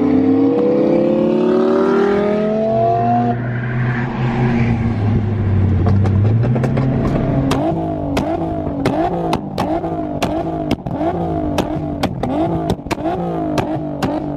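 A supercar engine revving up under hard acceleration, its note rising for about three seconds, then dropping back and running lower. From about halfway it gives way to a regular run of sharp cracks, two or three a second, each with a dipping and rising note.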